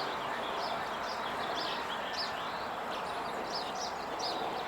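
Small birds chirping, many short high chirps in quick succession, over a steady background hiss of outdoor noise.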